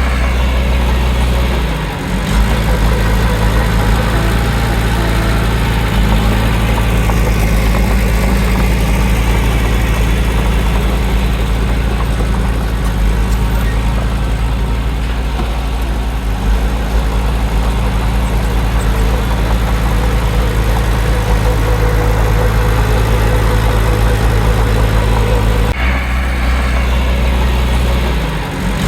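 Heavy diesel engine of earthmoving machinery running steadily, a deep continuous drone whose pitch and character change abruptly about two seconds in and again near the end.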